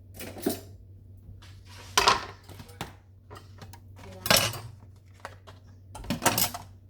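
Kitchen dishes and utensils clattering while breakfast is cooked: four short bouts of knocking and clinking about two seconds apart.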